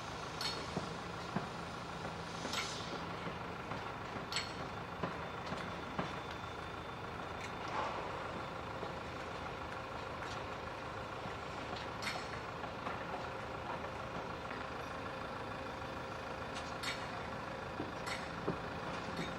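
Old Pecco tower crane's machinery running steadily, with a few held tones and scattered sharp clicks and knocks from the structure.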